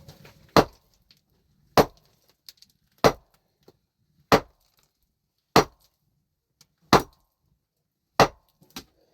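Seven heavy, evenly paced blows of a hand tool, about one every 1.3 seconds, each a sharp hard strike.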